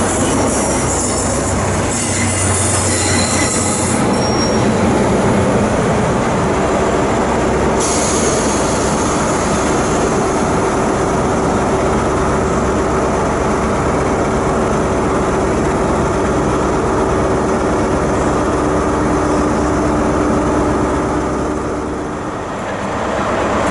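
A train running loudly along the station tracks, a continuous rumble with steady tones from about ten seconds in; the sound dips briefly near the end and then comes back.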